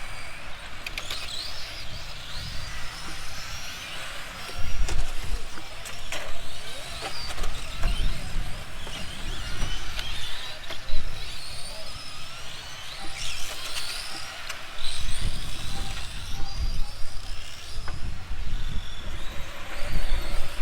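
Several electric radio-controlled cars running on a track, their motors whining and rising and falling in pitch as they accelerate and brake. Wind rumbles on the microphone throughout, with a few sharp clicks.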